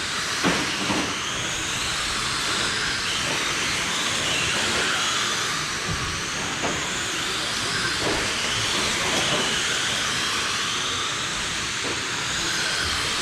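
Several brushless electric RC oval cars racing on a dirt track, their motors whining in overlapping pitches that rise and fall as they speed up and slow down around the oval, over a steady hiss of tyres on dirt.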